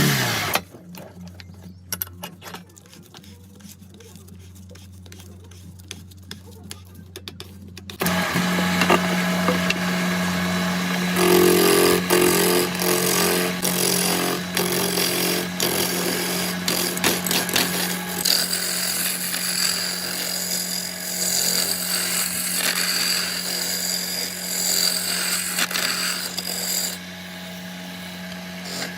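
An electric power tool working material: scattered light clicks and knocks at first, then the tool's motor starts up about a third of the way in and runs steadily with a constant hum, easing off in level near the end.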